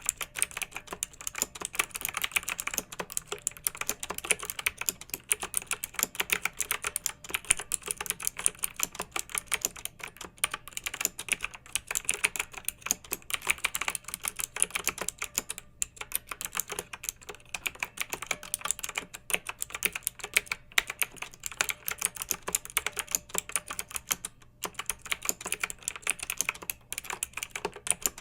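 Clicky mechanical keyboard being typed on quickly and steadily, many sharp keystroke clicks a second with a few short pauses.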